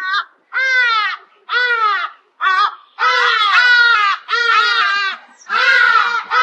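Ibis calling: a quick series of pitched calls, each under a second long and falling in pitch, coming almost without pause from about three seconds in.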